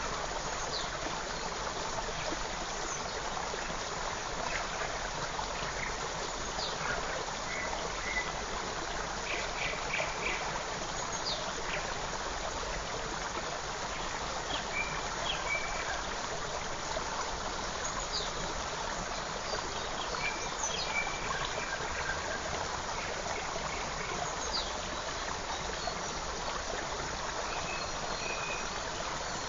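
Forest creek babbling steadily, with scattered short bird chirps and calls over the water.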